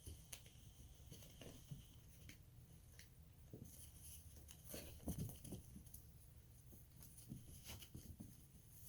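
Faint scattered scuffles and light taps from small puppies moving about, with a soft low thump about five seconds in.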